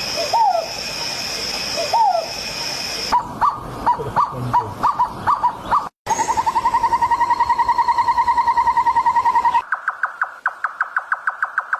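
A string of different bird calls spliced together with abrupt cuts. First come two upward-hooked calls, then a run of short calls, then a fast, even trill for about three and a half seconds, then a quick series of sharp repeated notes.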